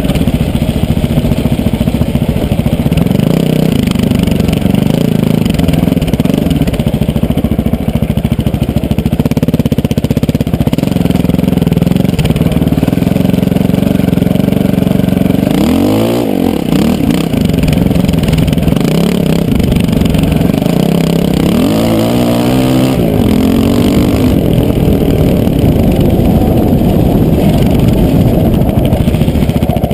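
KTM LC4 620's single-cylinder four-stroke engine under way off-road, its pitch rising and falling with throttle and gear changes, most plainly about halfway through and again a few seconds later.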